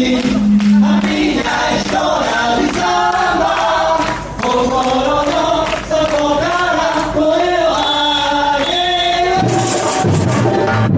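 Live samba band: a chorus of voices singing over the percussion section. About nine and a half seconds in, the singing drops out, leaving the drums playing a low, repeating beat.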